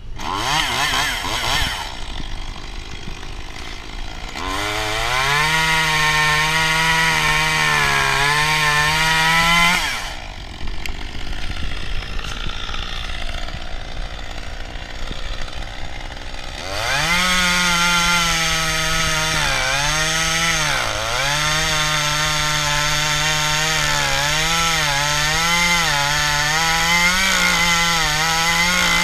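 Two-stroke chainsaw cutting a branch: it revs up to full speed about four seconds in, eases off to a lower run in the middle, then runs at full throttle again, its pitch dipping briefly again and again as the chain bites into the wood.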